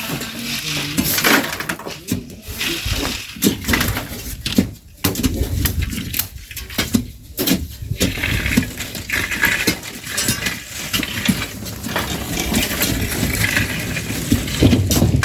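Hand shovels scraping into sand and grit and tossing it, an irregular run of scrapes and metallic clinks.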